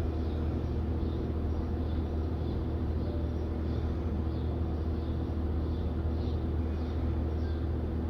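Steady low hum, like a fan or distant engine, with faint short high chirps repeating about twice a second.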